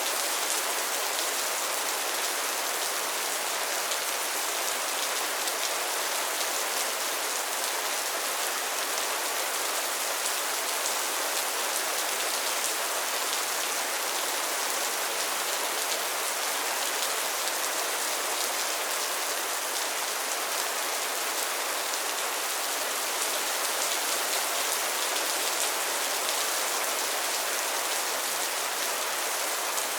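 Steady rain falling on a pond and its lily pads, an even hiss of many fine drop patters.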